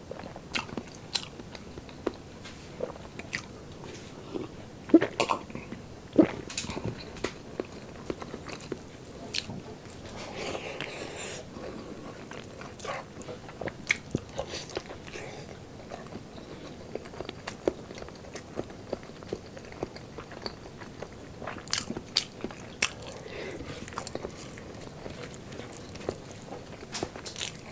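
Close-miked chewing and biting of braised pork, with frequent sharp wet mouth clicks and smacks; the loudest smacks come about five and six seconds in.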